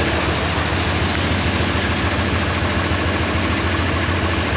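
Car engine idling steadily, fitted with a cold air intake.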